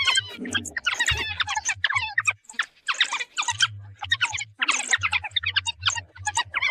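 African wild dogs giving rapid, high-pitched twittering squeals and chirps, call after call in quick succession, as they face off with hyenas at their den.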